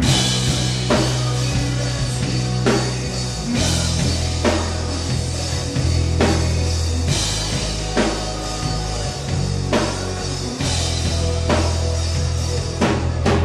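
Rock music with a drum kit and a heavy, sustained bass line.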